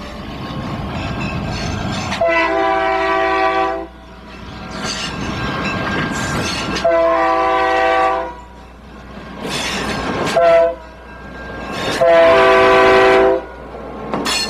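Diesel locomotive's multi-chime air horn sounding two long blasts, one short and one long, the standard signal for approaching a grade crossing, over the rumble of the moving train.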